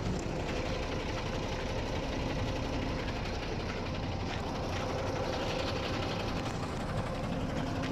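An engine idling steadily, a continuous mechanical running sound with a faint low hum.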